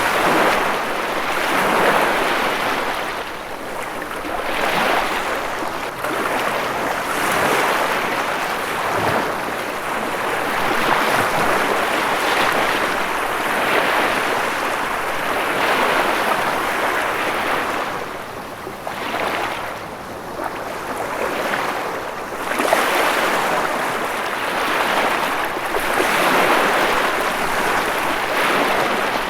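Ocean waves breaking and washing ashore, a continuous surf sound that swells and eases every couple of seconds.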